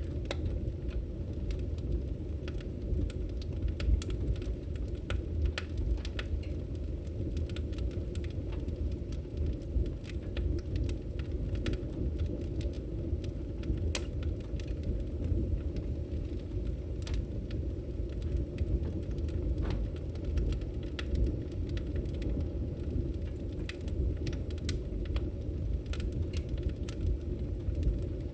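Wood fire crackling in a fireplace: a steady low rumble of the flames with irregular sharp pops and snaps scattered throughout.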